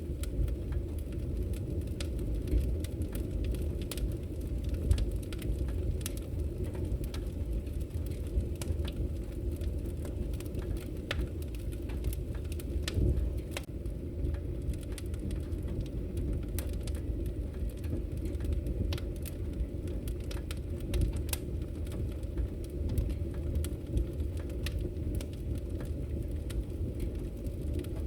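Wood fire burning in a fireplace: a steady low rush of flames with frequent sharp crackles and pops scattered throughout.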